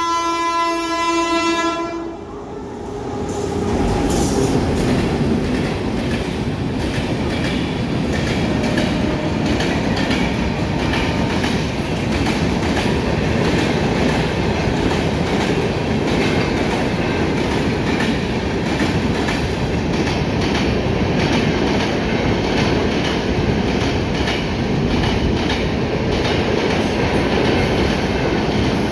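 A WAP-7 electric locomotive's horn blowing one steady note, stopping about two seconds in. Then the Rajdhani Express's locomotive and LHB coaches pass close by at speed: a loud, steady rush of wheels on rail with a rhythmic clickety-clack over the rail joints.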